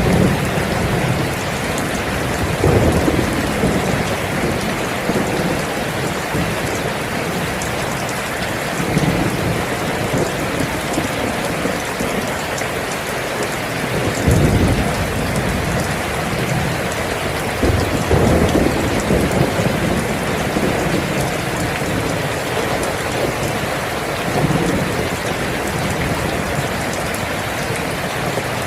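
Steady heavy rain falling, with several low rolls of thunder rising and fading through it.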